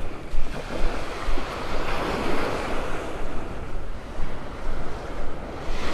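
Small Gulf of Mexico waves washing up the beach, the wash swelling about two seconds in and again near the end, with wind buffeting the microphone.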